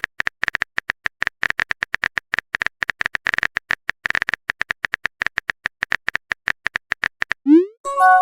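Rapid, irregular clicks of a phone-keyboard typing sound effect, as a chat message is typed out. About seven and a half seconds in, a short rising swoosh and then a chime begin, the message-sent sound.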